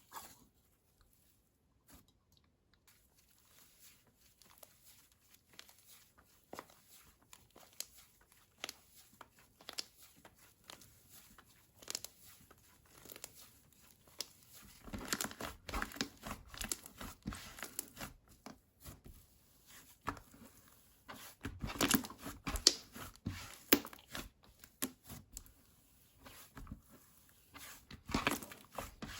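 Slime being squeezed, pressed and stretched by hand, making crackling, popping and clicking sounds. The sounds are sparse at first and become denser and louder from about halfway through.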